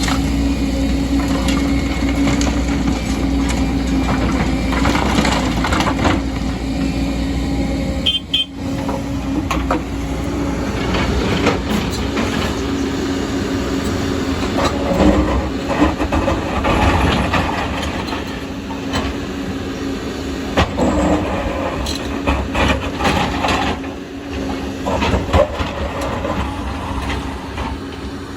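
Excavator running steadily at work, with repeated metal clanks and knocks over the engine's hum.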